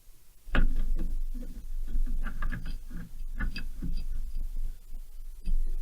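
Metal hand tools clinking and clattering, irregular knocks and clicks as a spanner and workshop tools are picked up and handled on the bench.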